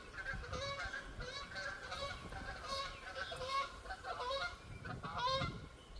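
A flock of geese honking, many short calls overlapping several times a second, over a low rumble of wind.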